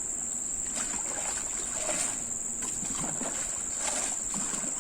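Steady high-pitched chorus of insects, one unbroken tone.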